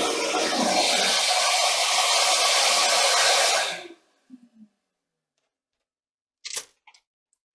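An electric blower-type tool running steadily with a hissing rush and a hum, switched off about four seconds in; two short clicks follow near the end.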